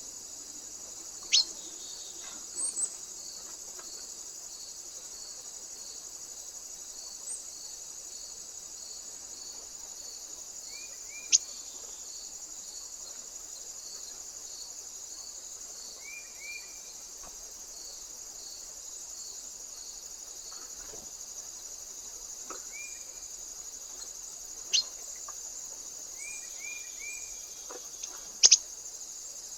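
Crickets chirp steadily and rhythmically in the background. A small bird gives a sharp call, falling steeply in pitch, four times, along with a few soft, short chirps in quick twos and threes.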